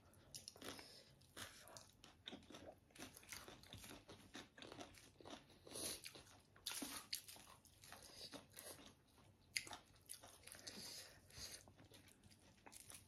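Faint, irregular crunching and chewing of singju, a salad of raw shredded vegetables, eaten by hand in a mukbang.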